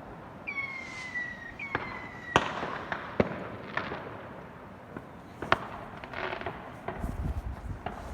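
Fireworks going off: two whistling fireworks, each a slightly falling whistle, in the first two seconds, then a series of sharp bangs and scattered crackles. The loudest bang comes about two and a half seconds in.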